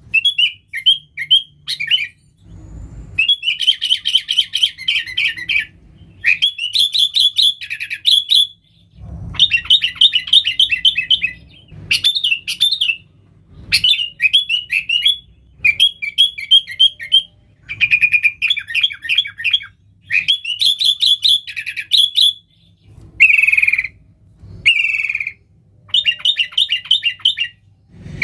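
Sooty-headed bulbul (kutilang) in full song, giving phrase after phrase of rapid, chattering notes. Each phrase lasts about one to two seconds, with short pauses between.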